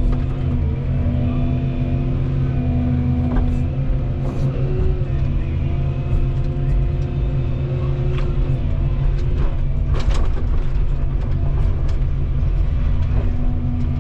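Volvo 235EL excavator's diesel engine running steadily under working load, with steady whining tones that shift in pitch now and then. Scattered sharp cracks and knocks come through, the loudest about ten seconds in.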